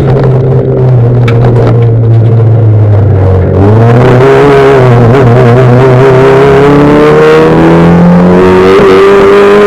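V1600-class rallycross cars racing at full throttle, several engine notes overlapping; the pitch climbs through the gears and drops back at the shifts.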